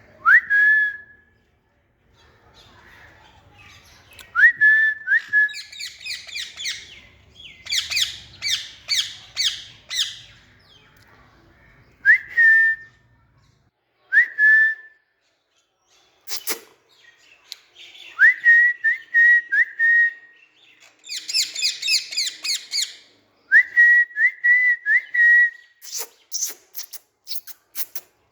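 Pet green parrot whistling: short calls that sweep sharply up and then hold, often two to four in quick succession, between bursts of rapid, harsh chattering. A few sharp clicks come in the second half.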